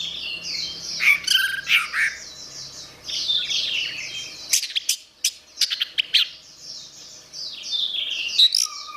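Orange-headed thrush singing: a continuous run of rapid, varied warbled phrases, with a cluster of short, sharp chirps about halfway through.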